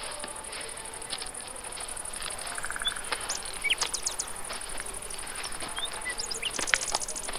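Outdoor ambience: steady high insect chirring, with scattered short bird chirps and light clicks.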